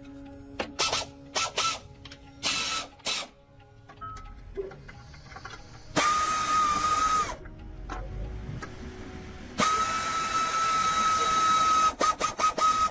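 A power tool running in bursts: several short trigger blips, then two longer runs of a second or more, each a steady high whine over a hiss, and a quick string of short blips at the end.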